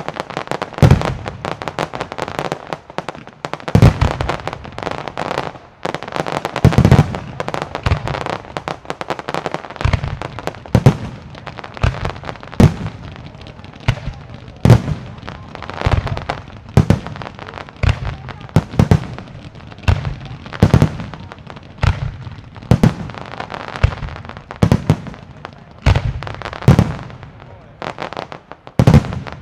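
Fireworks display: aerial shells bursting in a long series of loud booms over a dense wash of smaller reports. The booms come a few seconds apart at first, then about one a second from about a third of the way in.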